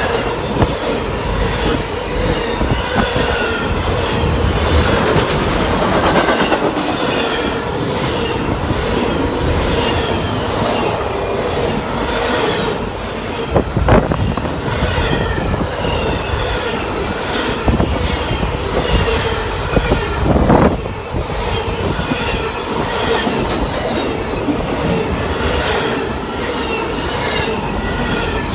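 Norfolk Southern intermodal freight train passing close by: the steel wheels of its trailer and container flatcars rolling and clacking over the rail joints, with a steady squeal. Two louder knocks stand out about halfway through.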